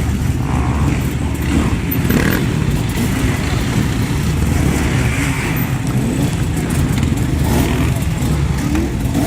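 Off-road dirt bike engines running and revving, the engine pitch rising and falling.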